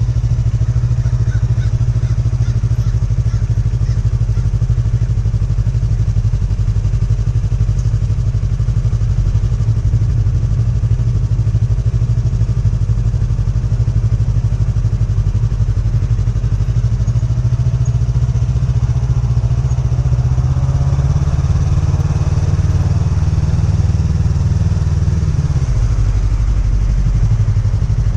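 Motorcycle engine running steadily at low speed with a low pulsing beat, the bike crawling along on the clutch with little or no throttle.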